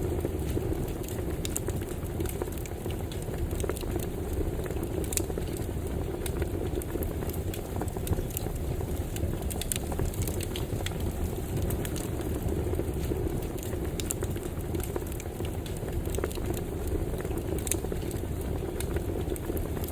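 Campfire burning steadily with a low rush of flames and frequent sharp crackles and pops of wood.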